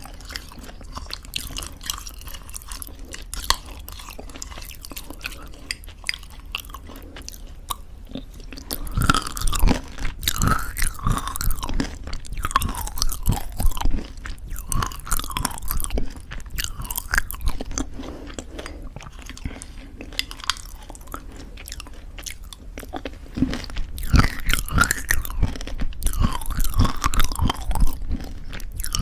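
Close-miked chewing of crunchy homemade granola in thick yogurt: crisp crunches mixed with wet mouth sounds, in two louder bouts, one about a third of the way in and one near the end.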